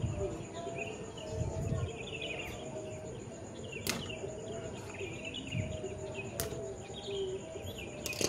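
Small birds chirping again and again in the background. Over them come a few low handling thumps and three sharp clicks.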